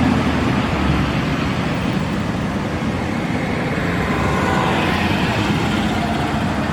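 Cars driving by: a steady rumble of engines and road noise.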